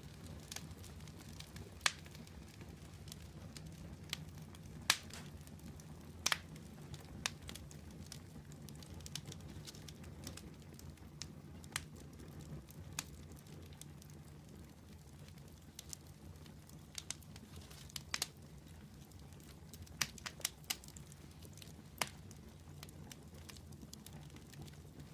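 Wood fire burning in a fireplace: a steady low rumble of flames with scattered sharp pops and crackles from the burning logs, several close together about twenty seconds in.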